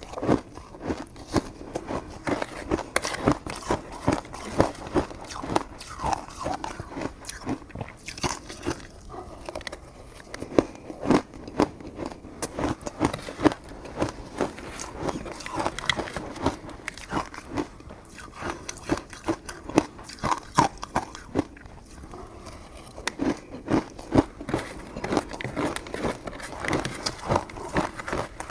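Close-up eating sounds of coconut sticky rice cake being bitten and chewed: a steady run of short mouth clicks and smacks, a few a second.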